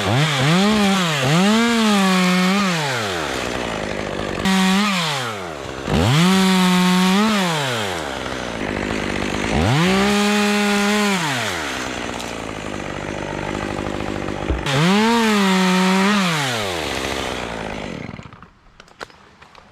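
Small top-handle climbing chainsaw revving up to full throttle and holding there for a second or two at a time, then dropping back to idle, about six times over, as it cuts through small cypress branches. It stops near the end.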